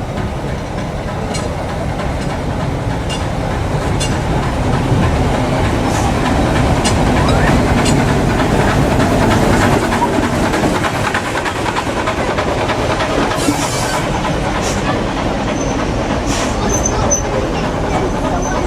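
A train passing close by, its wheels clicking over the rail joints. The noise grows louder toward the middle and then eases a little.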